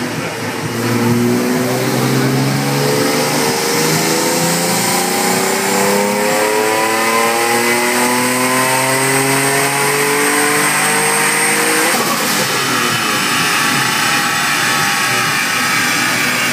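Turbocharged Nissan 350Z's 3.5-litre V6 making a full-throttle dyno pull: the engine note climbs steadily in pitch for about eleven seconds, with a thin high whistle rising alongside it. About twelve seconds in the throttle shuts abruptly and the revs fall away as the car coasts down on the rollers.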